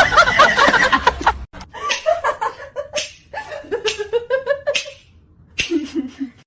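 People laughing in repeated bursts, with a lower-pitched laugh near the end.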